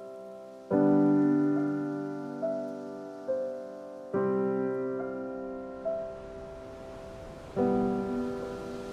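Soft background piano music: slow sustained chords about every three and a half seconds, with single higher notes between them, each left to ring and fade.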